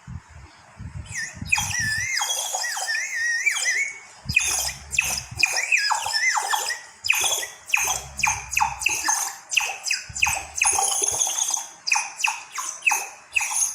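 Homemade water whistle blown into a bowl of water, making a bird-like sound. It starts with a warbling trill and then goes into a rapid run of short chirps that fall in pitch, with the low bubbling rumble of breath through the water between some of them.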